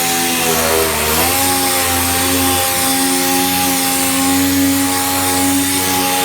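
Power sander running steadily with a whine and a hiss. Its pitch sags about half a second in and comes back up a moment later, as it is pressed onto the panel.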